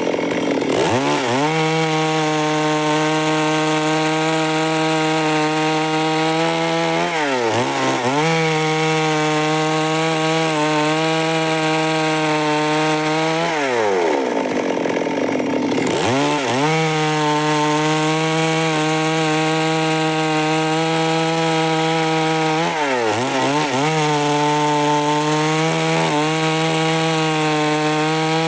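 Stihl MS 382 two-stroke chainsaw cutting through wood at full throttle in long, steady passes. Every six to eight seconds the engine pitch sags and climbs back, and near the middle it drops for about two seconds before revving up again.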